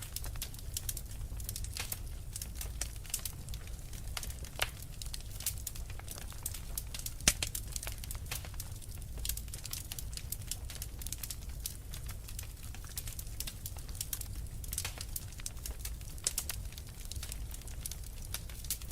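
Wood fire in a fireplace crackling: a dense run of small snaps and pops over a low, steady rumble, with a sharper pop about seven seconds in and a smaller one just before five seconds.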